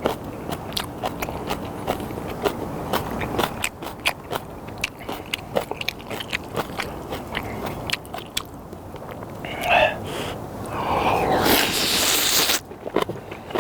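Close-miked eating of spicy instant ramen noodles: chewing with many short wet clicks. A longer, louder burst of noise comes near the end.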